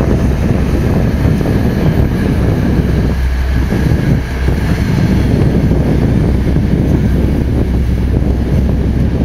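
Wind buffeting the microphone: a loud, steady low rumble with a brief lull about three to four seconds in.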